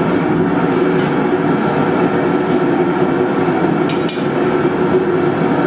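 Loud, steady roar of blacksmith shop equipment running, with a low hum and a couple of faint metallic ticks.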